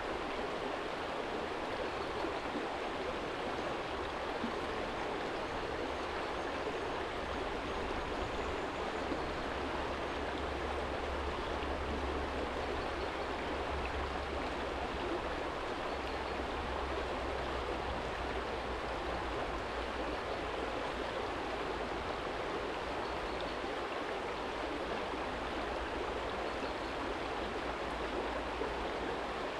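Small stream flowing over a stony bed: a steady rushing of water. A low rumble runs underneath and is stronger for several seconds in the middle.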